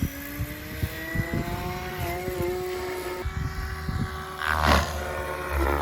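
Goblin 580 RC helicopter spooling up, its motor-and-rotor whine rising steadily in pitch for about three seconds, then a louder rushing swell about four and a half seconds in. Wind buffets the microphone.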